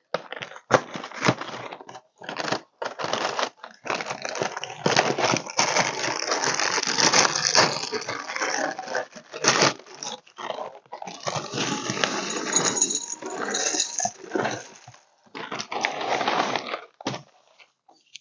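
Close-up crunching and chewing of crunchy frosted flake cereal with honey nut clusters. The crunches come in irregular runs of crackly bursts broken by short pauses.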